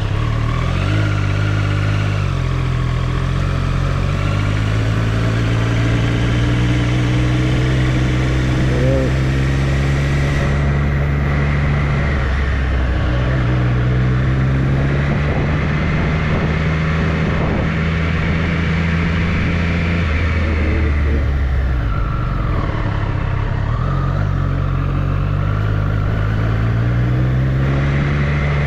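Triumph Street Triple motorcycle's inline-three engine heard from the rider's seat, its pitch climbing in steps through the gears, dropping away about twenty seconds in as it slows, then building again near the end, over a steady rush of noise.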